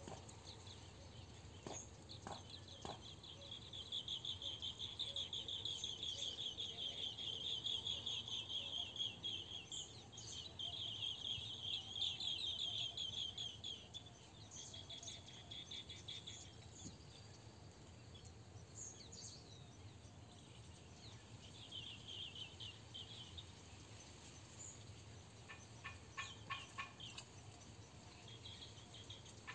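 Birds calling outdoors: a rapid pulsed chattering trill that runs for about twelve seconds, a shorter burst of it later, and scattered higher chirps. A few light clicks come near the end.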